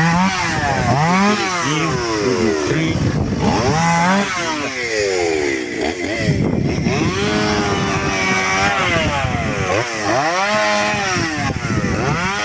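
Two-stroke chainsaw cutting a felled pitomba trunk into logs, its engine revved up and down over and over so the pitch keeps rising and falling, with a steadier stretch at lower pitch about midway.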